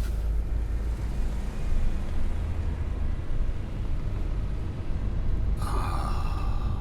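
Manual-transmission car's engine running with a steady low rumble as it pulls away in gear. Near the end, a sustained higher sound with several steady tones comes in over it.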